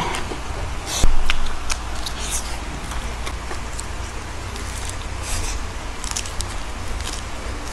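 Close-up eating sounds: chewing fried chicken, then biting and chewing crisp lettuce leaves, with short crunches scattered through, the loudest about a second in. A steady low hum runs underneath.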